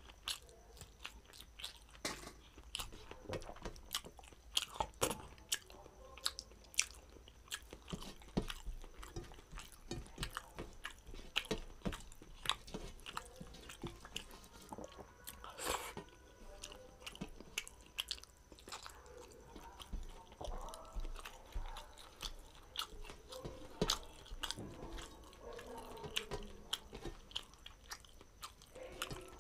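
Close-miked eating sounds of a man eating rice and curry by hand: wet chewing and lip-smacking, with many irregular short clicks.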